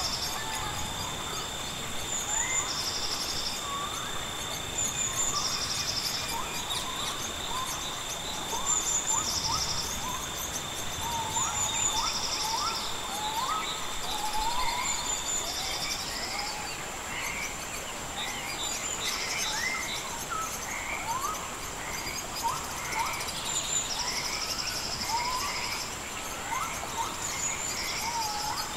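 Nature ambience: many birds call in short rising chirps over a steady, high-pitched insect drone. A buzzy insect trill pulses every couple of seconds, and a second, lower insect tone stops about halfway through.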